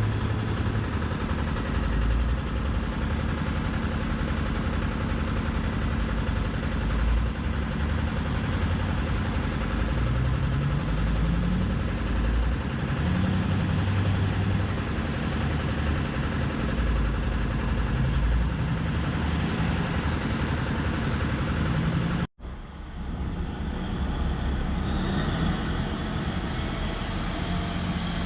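Diesel engine of a Komatsu 730E mining haul truck running steadily with a deep rumble, rising in pitch briefly a couple of times about ten to thirteen seconds in. The sound cuts out for an instant a few seconds before the end, then carries on.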